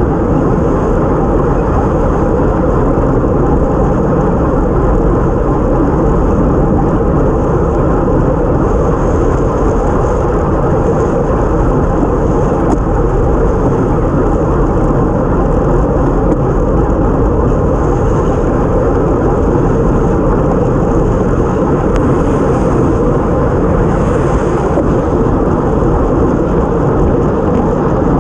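Steady rush of wind over a bike-mounted action camera's microphone at racing speed, mixed with tyre noise on a wet road.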